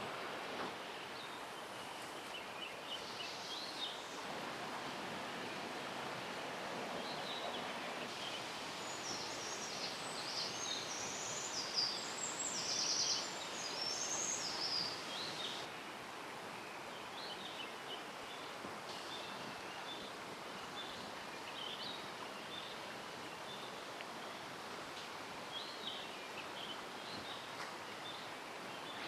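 Steady rushing of a mountain stream, with songbirds calling over it. A burst of dense, high chirping comes about nine seconds in and stops about fifteen seconds in.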